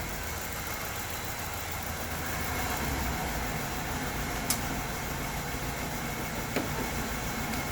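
LPG-fuelled car engine idling roughly just after start-up, with a single sharp click about halfway through. The engine is shaking badly at idle, a fault the mechanic traces to the injector side or its current supply.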